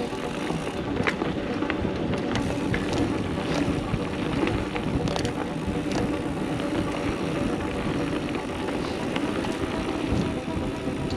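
Mountain bike riding downhill on a dirt singletrack: steady wind rush over the microphone and tyres rolling on dirt, with frequent short clicks and rattles from the bike over bumps.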